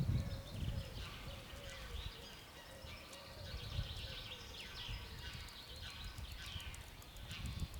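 Many small birds chirping and twittering in quick short notes throughout, over a low steady rumble.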